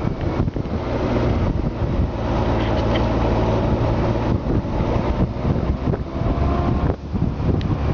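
Honda Gold Wing's flat-six engine running steadily under way, with wind buffeting the microphone.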